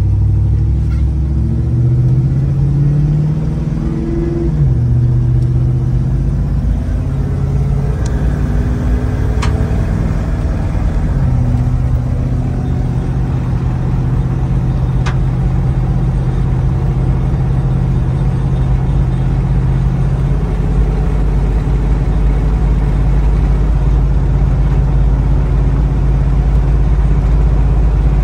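A 6.0L Vortec V8 in a 1979 Jeep Cherokee Chief, heard from inside the cabin while driving. The steady low engine drone changes pitch several times as the revs change. A few sharp ticks come in the middle.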